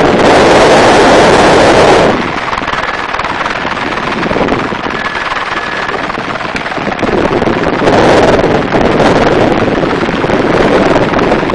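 Helicopter in flight heard from an open door-gunner position: loud, steady rotor and engine noise with wind buffeting the microphone, strongest at the start and again from about eight seconds in.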